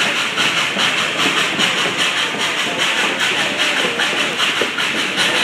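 Dollywood Express steam train No. 192 heard on board while running: a steady hiss with a rhythmic beat about four times a second.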